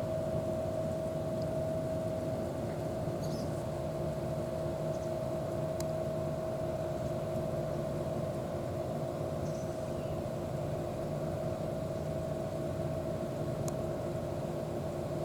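Steady engine-like hum at a constant pitch, unchanging throughout, with a few faint high ticks.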